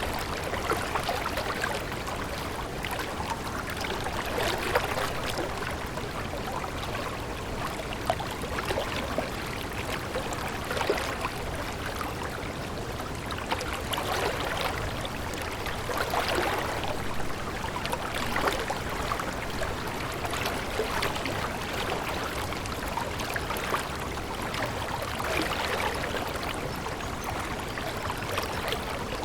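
Stream water flowing in a steady babble, full of small splashes.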